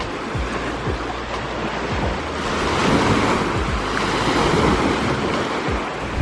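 Small lake waves washing on a pebble shore, swelling for a few seconds in the middle, with wind gusting on the microphone.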